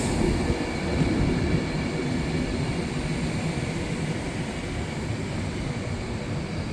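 Class 390 Pendolino electric train running slowly into the platform: a steady low rumble with a faint steady tone over it.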